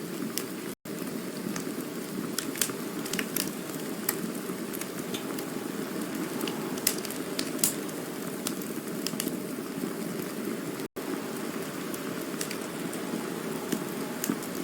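Campfire burning: a steady rushing hiss with scattered sharp crackles and pops of burning wood. The sound drops out for an instant twice, about a second in and near eleven seconds.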